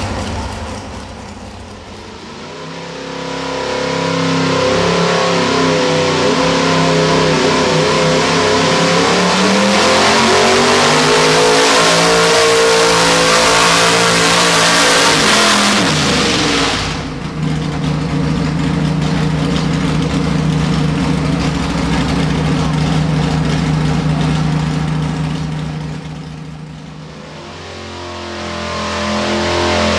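Pro stock four-wheel-drive pulling truck's engine at full throttle under load, climbing in pitch and loudness, then falling off sharply about halfway through as the throttle is let off. It runs on steadily at a lower pitch, fades briefly and builds again near the end.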